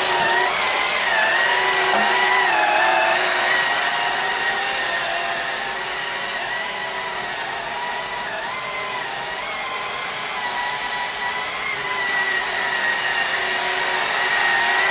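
Vacuum cleaner running continuously with a high motor whine that wavers slightly in pitch, a little softer in the middle stretch.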